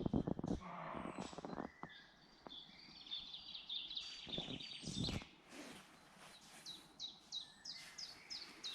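Woodland songbirds singing: a rapid trill in the middle, then a run of about eight quick down-slurred notes near the end. A few rustling thumps at the start and again about four seconds in.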